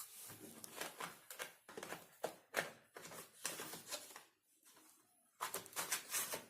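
Irregular clicking and scraping of laptop parts being handled and fitted during reassembly, with a pause in the middle and a short flurry of clicks near the end.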